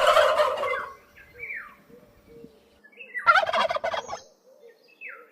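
Turkey gobbling: a rapid rattling gobble at the start and another about three seconds in, with a few short, faint calls between them.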